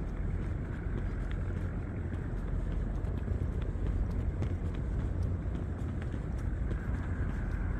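Steady low rumble of night-time city and riverside ambience, with a few faint ticks.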